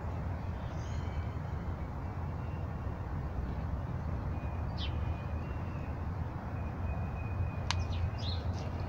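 Steady low outdoor rumble with a few short bird chirps, about five seconds in and again near the end.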